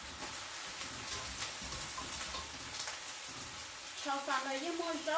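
Food frying in hot oil: a steady sizzle with fine crackles. A high-pitched voice starts speaking about four seconds in, over the frying.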